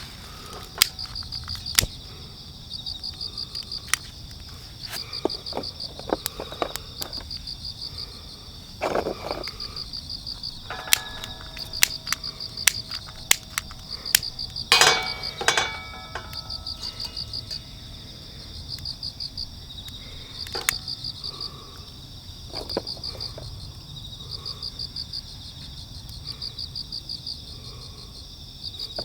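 Crickets chirping: short trains of rapid pulses repeat every couple of seconds over a steady high insect drone. Scattered clicks, knocks and metallic clinks come and go, one clatter louder near the middle.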